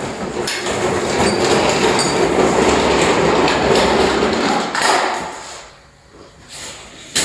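A wheeled welder rolling across the shop floor for about five seconds, a rumbling rattle from its wheels, then a knock as it stops. A single sharp clack comes near the end.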